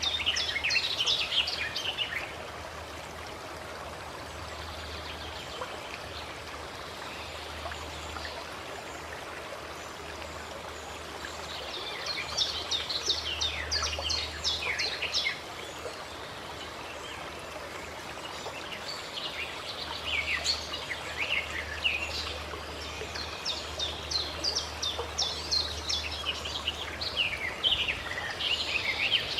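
A songbird singing in several bursts of rapid, falling chirps, over the steady rush of a flowing stream.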